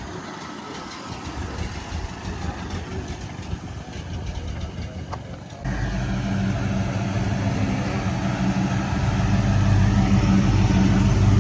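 A car engine running at idle; about halfway through it changes suddenly to a louder, steadier low hum that keeps growing louder toward the end.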